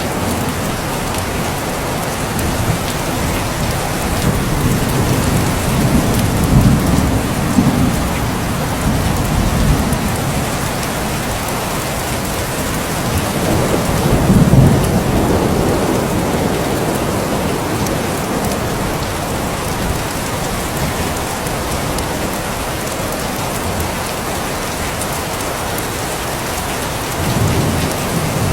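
Steady rain falling, with rolling thunder rumbling three times: a long roll a few seconds in, a stronger peak about halfway, and another starting near the end.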